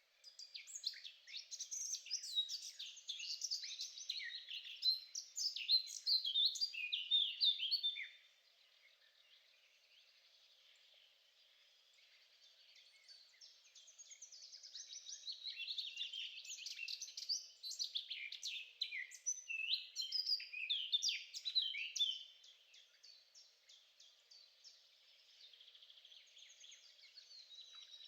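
A songbird singing long runs of rapid, varied warbling and chirping notes. One run lasts about eight seconds, a second starts about 13 seconds in and runs to about 22 seconds, and softer song fills the pauses.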